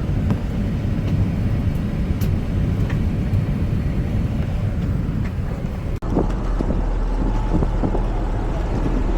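Steady low rumble of a running engine with a noisy background. About six seconds in it cuts abruptly to a deeper, steadier hum with a few faint short sounds over it.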